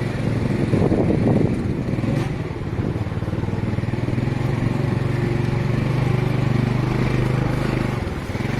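Small motorcycle engine running as the bike rides along, heard from on the bike, with a louder surge about a second in before it settles back to a steady run.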